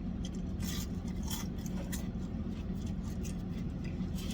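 Eating battered fried cod and fries: irregular small crunches, crackles and clicks from the food and its takeout container, over a steady low hum.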